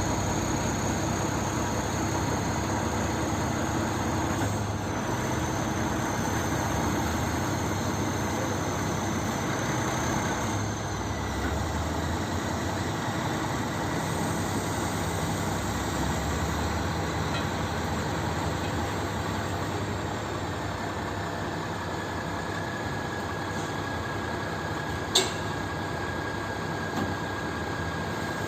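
Truck diesel engine running steadily, with a faint high-pitched whine over it and one sharp click near the end.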